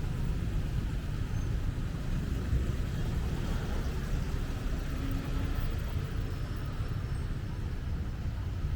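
Steady road traffic rumble on a city street, with no single vehicle standing out.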